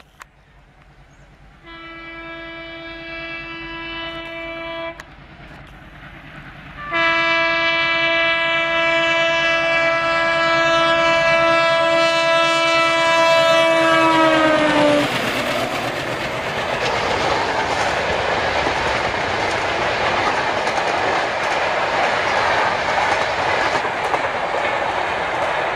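WDM3A ALCo diesel locomotive sounding its horn: a blast of about three seconds, then a long, louder blast about seven seconds in that drops in pitch as the locomotive passes close by. The Shatabdi Express coaches then rush past with wheels clattering over the rail joints.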